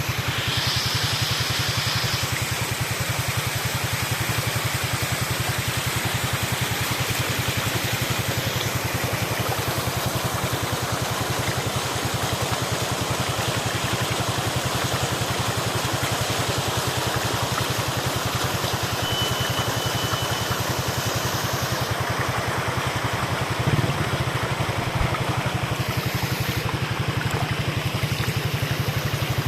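Mountain waterfall: water falling from a height and splashing in a steady, dense rush with a low rumble underneath. There is a brief thump about three-quarters of the way through.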